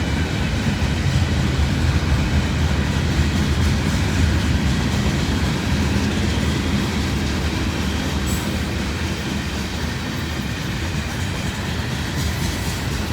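Freight train cars rolling steadily past on the rails, the steel wheels running over the track in a continuous low rumble.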